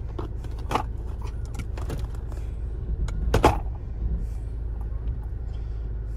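Mahindra Scorpio N's engine idling steadily, heard from inside the cabin, with a few scattered clicks and knocks of handling in the cabin, the loudest about three and a half seconds in.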